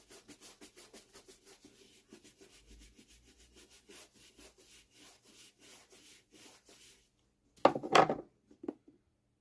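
Small brush buffing polish on the edge of a leather boot midsole: quick, even rubbing strokes, about four a second, for some seven seconds. Then a couple of louder knocks near the end.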